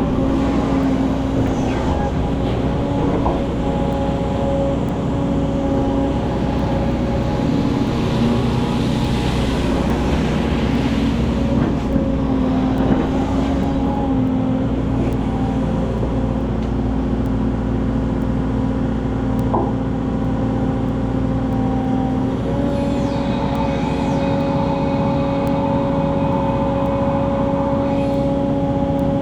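Excavator's diesel engine running steadily under work, its note stepping slightly higher about two-thirds of the way through, with a brief hiss about a third of the way in.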